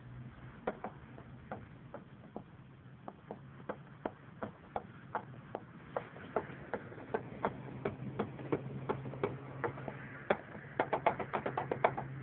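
Worn-out Lada Niva front differential knocking: sharp clacks, one or two a second at first, coming faster and louder near the end, over a steady low drivetrain hum. The differential is worn through.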